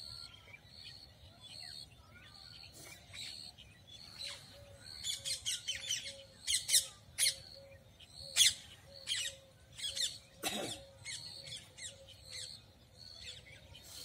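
Birds chirping and squawking in quick sharp calls, busiest from about five to nine seconds in, over a high peep repeated at an even pace.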